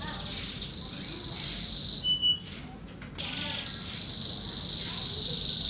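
Male domestic canary singing long, rapid, high-pitched trills, held steady for over a second at a time with a short break in between. It is a male in full song and breeding condition, ready to be paired with a hen.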